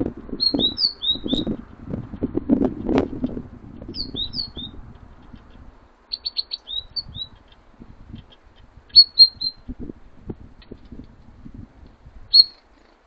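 Small songbirds at a bird feeder chirping in about five short clusters of quick, high notes, with soft knocks and rustling underneath, busiest in the first half.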